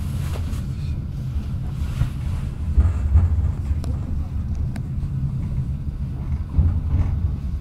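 Passenger train carriage rolling slowly out of a station, heard from inside the carriage: a steady low rumble with a few faint clicks.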